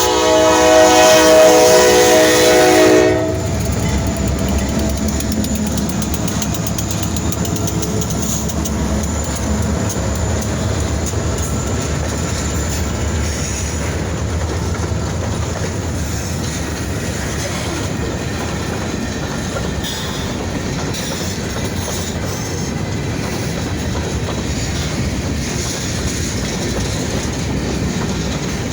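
A diesel freight train's horn sounds as a multi-note chord that cuts off about three seconds in. It is followed by the steady rumble of the SD40-2 locomotives and rail cars rolling past, with the clickety-clack of wheels over rail joints.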